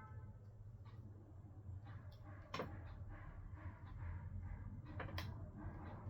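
Faint handling of a smartphone's internal parts as the battery and its flex cable are fitted, with two sharp small clicks, one about two and a half seconds in and one near the end, over a steady low hum.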